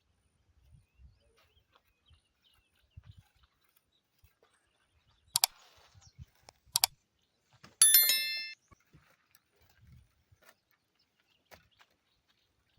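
Two sharp clicks, then a metal strike that rings briefly with a bell-like tone and dies away after about half a second.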